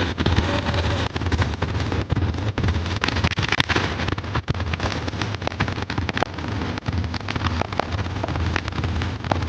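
Fireworks going off in quick succession: a dense run of irregular bangs and cracks, several a second, over a continuous rumbling din.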